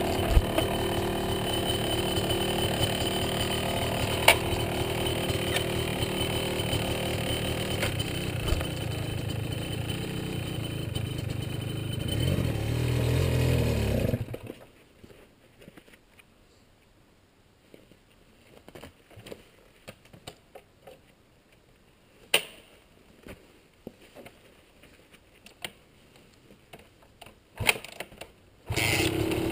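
Yamaha 250 dirt bike engine running steadily, swelling briefly and then stopping abruptly about fourteen seconds in. About fifteen seconds of near quiet with scattered clicks and knocks follow, and the engine is heard again just before the end.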